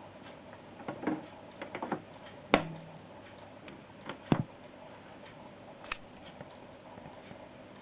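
A faint, evenly repeating ticking pulse over a low hum in a camera's audio, electrical interference that the uploader suspects comes from a Wi-Fi SD card. Several louder, irregular clicks and knocks break in, the sharpest about two and a half seconds in and just after four seconds.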